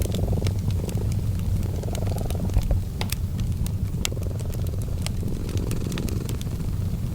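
Domestic cat purring steadily, the low purr swelling and easing with each breath about every two seconds, over the scattered sharp pops and crackles of a fireplace fire.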